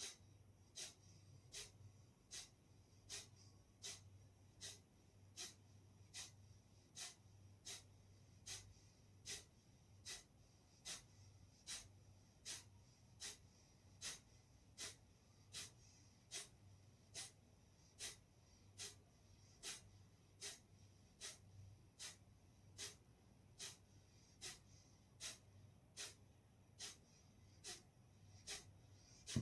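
Kapalbhati breathing: short, forceful exhalations through the nose, each pushed out by a snap of the abdomen, repeating in a very even rhythm of about four every three seconds. A faint steady hum lies underneath.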